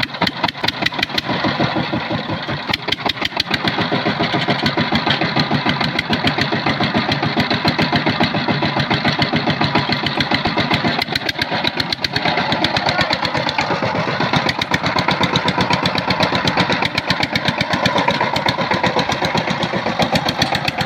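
Single-cylinder diesel engine of a walk-behind power tiller running steadily with a rapid, even beat, a little louder from about four seconds in.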